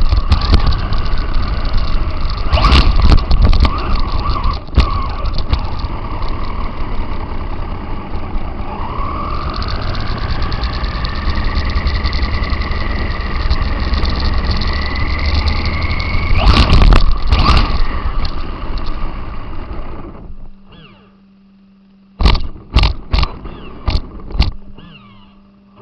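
RC car heard from its onboard camera: loud rumble and rattle of the chassis and tyres over rough ground, with a drivetrain whine that rises in pitch as the car speeds up through the middle. About twenty seconds in the noise cuts off, leaving a low steady hum and a few sharp knocks.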